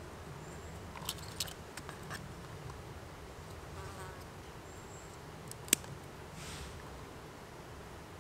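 An insect, such as a fly or bee, buzzing close by in a steady low hum. A few sharp clicks come over it, the loudest a little before six seconds in.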